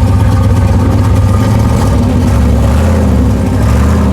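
Loud car engine idling at the track with a deep, uneven rumble; its pitch settles slightly lower a little past halfway.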